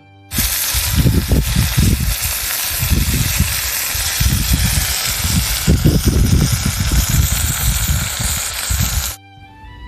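Marinated kalbi (beef short rib) sizzling loudly on a grill over a campfire, with a low rumbling that comes and goes underneath. It starts suddenly just after the beginning and cuts off abruptly near the end.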